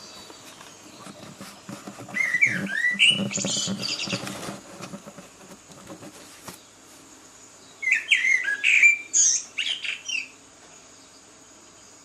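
A songbird singing two phrases of quick rising and falling notes, about five seconds apart. Clicks and knocks run through and after the first phrase.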